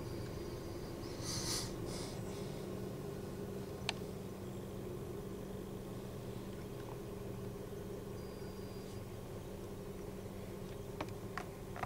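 Car engine idling steadily, heard from inside the cabin as a low hum. A brief rustle comes about a second and a half in, and a few sharp clicks follow later.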